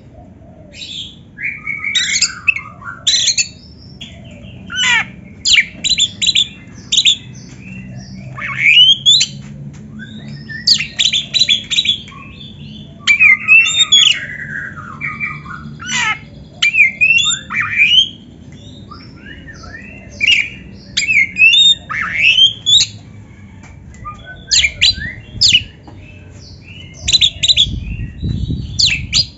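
Oriental magpie-robin (kacer) singing: short phrases of quick, sweeping whistled and harsh notes, repeated every second or two with brief pauses between them. A faint low hum lies underneath.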